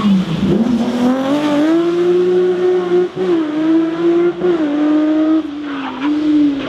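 A car engine held at high revs, its pitch wavering gently up and down with brief dips.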